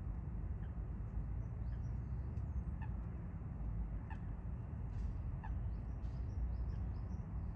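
Eurasian coots giving three short calls spaced a second or so apart, with thin high chirps of small birds in between, over a steady low rumble.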